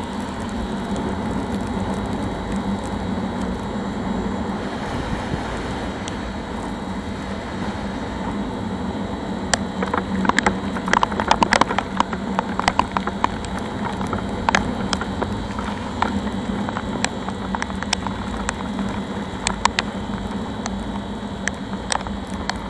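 Motorcycle riding in heavy rain: a steady engine hum under a wash of wind, tyre and rain noise. From about ten seconds in, many scattered sharp ticks, like raindrops striking the helmet or camera.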